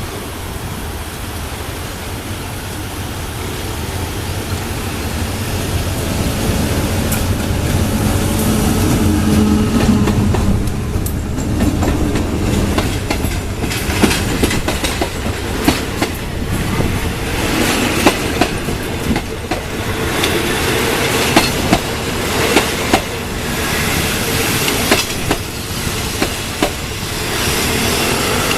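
A State Railway of Thailand train crossing a railway bridge. The low rumble of its diesel engine builds over the first ten seconds or so. Then the wheels clickety-clack over the rail joints in a long run of knocks.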